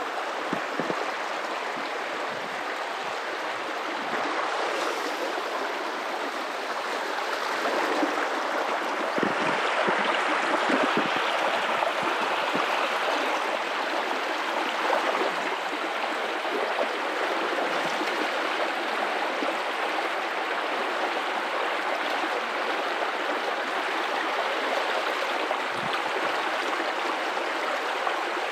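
River water running over rocks in a steady rush with gurgling, swelling a little for a few seconds near the middle.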